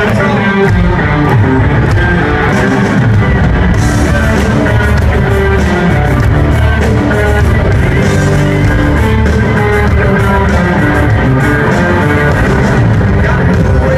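Live country-rock band playing loudly and steadily, with electric guitars and drums, as heard from the audience on a handheld recording.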